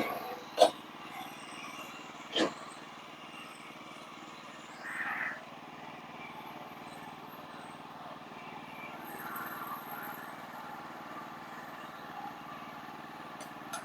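Sawmill engine running steadily at low revs, with two sharp knocks in the first couple of seconds.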